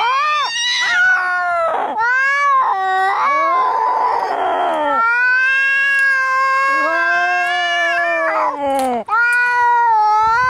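Angry cats caterwauling in a fight: long, wavering yowls that rise and fall in pitch, with a harsh, noisy screech-like stretch about four seconds in and a brief break near the end.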